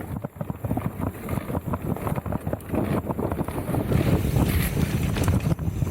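Wind buffeting and low rumble on an action camera's microphone, broken by many small irregular knocks and rattles, getting a little louder about four seconds in.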